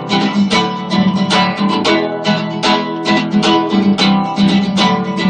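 Acoustic guitar strummed in a steady rhythm, with no singing over it.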